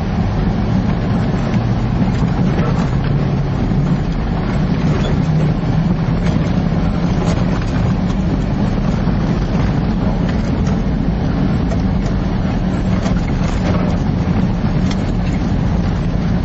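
A vehicle driving along: steady engine and road noise with a low hum, unchanging throughout.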